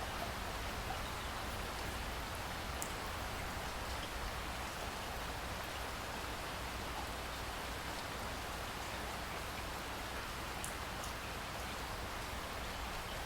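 Steady rain falling, an even hiss with a few sharp drip ticks.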